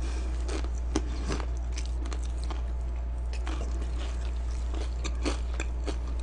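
Close-up chewing of crispy fried chicken, with scattered crunches every second or so over a steady low hum.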